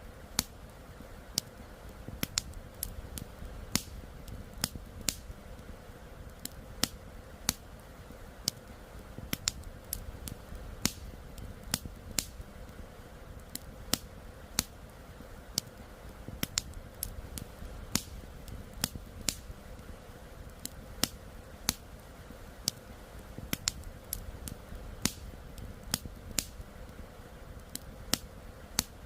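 Campfire wood crackling, with sharp pops at irregular intervals, a couple a second, over a steady low rush of flowing river water.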